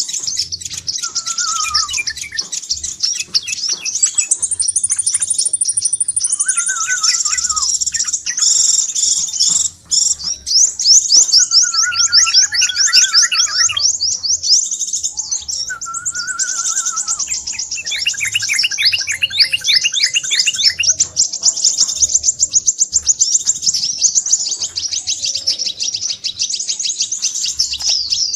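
Crimson sunbird calls used as a bird-lure track: a rapid, high, nearly unbroken trilling chatter, with shorter, lower warbled phrases breaking in every few seconds.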